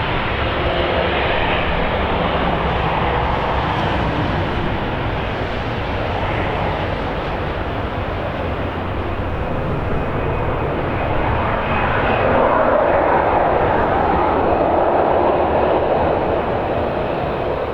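Airliner engines running as an aircraft moves at the airport: a steady noise that swells about twelve seconds in. Gusty wind rumbles on the microphone underneath.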